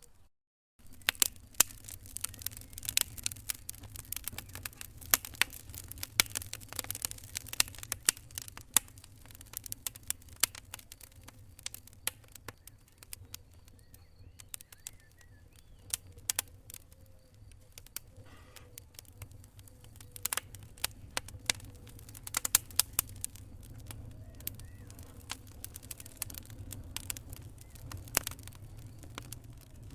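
Wood fire crackling in a fireplace: irregular sharp pops and snaps over a low steady rumble of the flames, with a brief dropout to silence just after the start.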